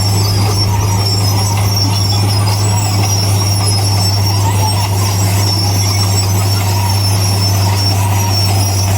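Bulldozer working: a steady, loud diesel engine drone with a continuous high-pitched metallic squeal over it, typical of steel crawler tracks running over their rollers and idlers.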